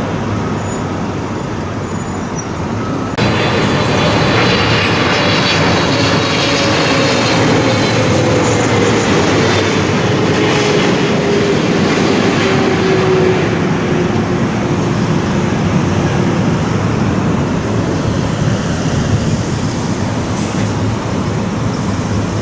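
Jet airliner on landing approach passing low overhead: a loud, steady rush of engine noise with a whine that falls slowly in pitch as it goes by. The sound jumps louder about three seconds in.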